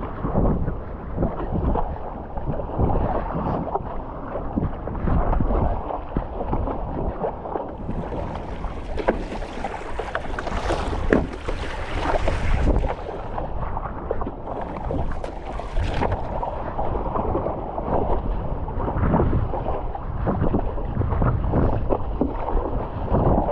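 Water sloshing and splashing around a stand-up paddleboard in choppy sea, with wind buffeting the microphone. The splashing turns brighter and hissier for a few seconds around the middle.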